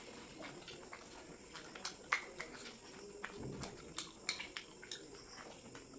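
Two people chewing mouthfuls of chicken roll, with irregular wet mouth clicks and smacks; the loudest snap comes about two seconds in.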